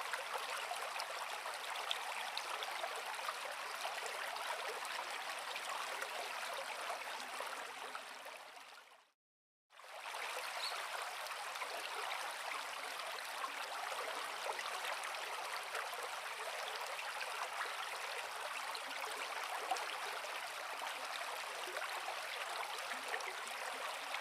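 Forest creek flowing over rocks: a steady rushing, babbling water sound. About nine seconds in it fades away to a brief silence, then comes back suddenly at full level.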